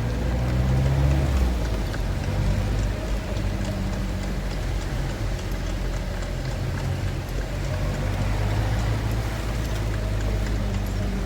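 Steady engine and road noise heard inside a moving car, with rain on the car.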